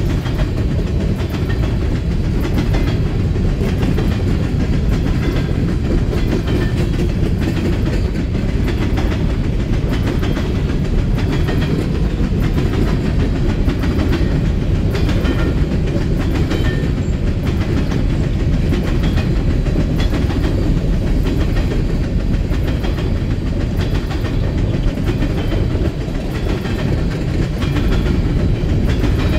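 Coal hopper cars of a freight train rolling past: a steady rumble of steel wheels on the rails, with a quick run of clicks as the wheels cross the rail joints.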